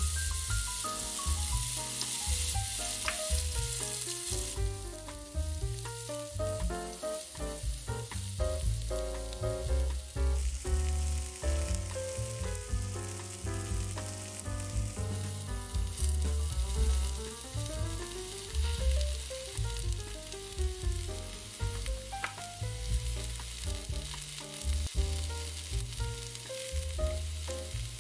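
Chopped onions sizzling in hot olive oil in a frying pan, loudest in the first few seconds after they go in and easing about four seconds in. Background music with a melody and bass plays throughout.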